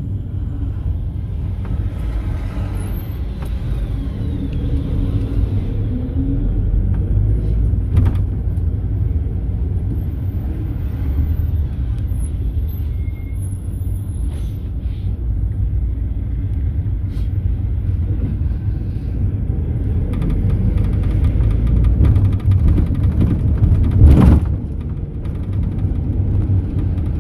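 Mercedes-Benz Sprinter minibus driving, heard from inside the passenger cabin: a steady rumble of engine and road. There are a few light rattles, and a loud thump about three-quarters of the way through.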